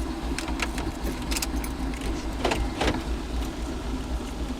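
A car engine idling, with scattered light clicks and rattles over it.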